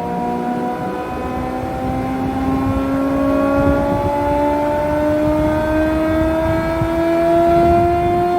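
Jaroma DSMB 63 thicknesser with a 5.5 kW motor running its four-knife cutterhead, a steady machine whine that rises slowly in pitch over a rough, rumbling low end.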